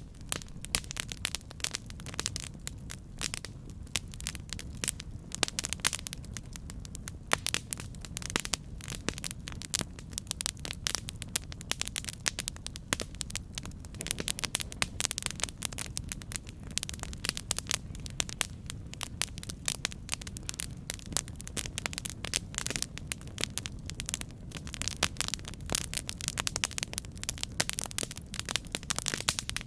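Campfire burning: a dense, irregular stream of crackles and pops over a low, steady rumble of the flames.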